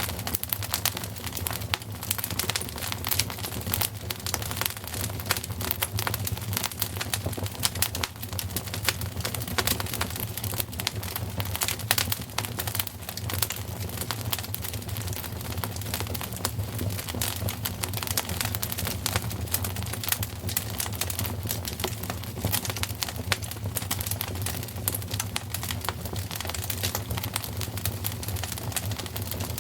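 Wood fire crackling steadily, with many small irregular snaps and pops over a low, steady rumble.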